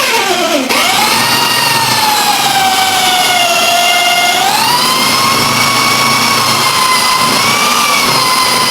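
High-speed electric spindle motor of a friction-welding setup whining. Its pitch plunges sharply in the first second as the spin is loaded down, snaps back, sags slightly, then rises again at about four and a half seconds and holds steady.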